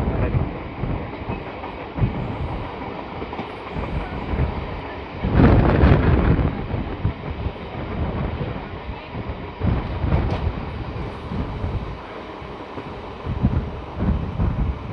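Passenger express train running on the rails, heard from inside the coach: a steady rushing rumble with irregular wheel knocks, and a louder rush for about a second near the middle.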